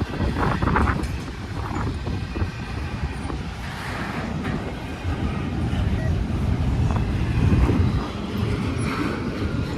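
A train passing with a steady low rumble, and scattered short rattles and squeaks above it.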